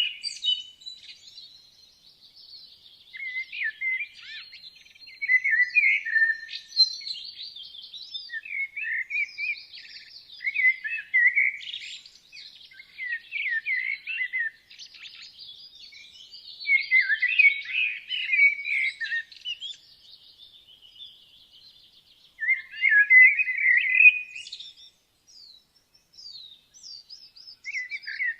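Woodland songbirds singing in spring. Several birds overlap: one repeats short, quick phrases of chirps every few seconds, with higher, thinner song running behind it.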